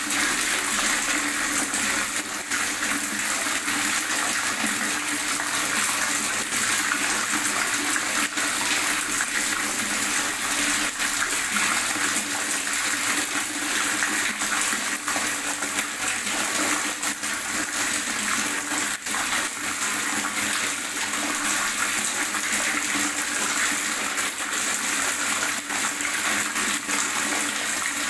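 Water gurgling continuously, a steady, dense splashing babble with small drips and pops in it.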